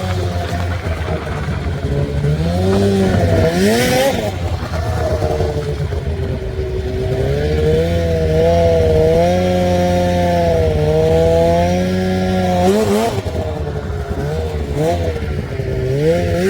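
Snowmobile engine running and revving, its pitch rising and falling repeatedly with several quick upward sweeps.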